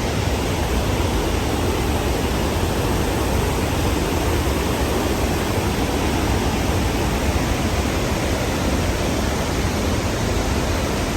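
Steady roar of the Khone Phapheng waterfall's rushing Mekong water, an even noise heaviest in the low end.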